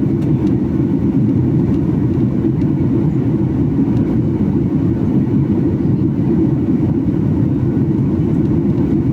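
Steady low rumble of an airliner's cabin noise in flight, an even, unchanging drone of engines and airflow.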